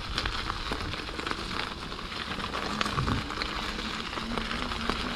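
Rain pattering, with many small crackling drop hits on the microphone, over a steady low rumble.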